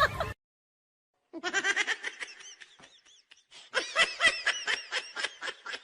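A comedy laughter sound effect: high-pitched giggling in quick repeated bursts, starting about a second in after a moment of silence.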